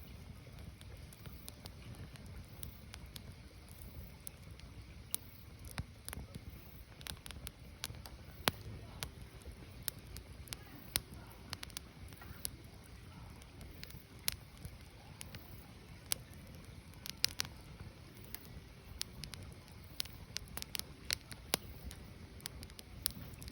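Firewood burning, with irregular sharp crackles and pops over a low, steady rumble.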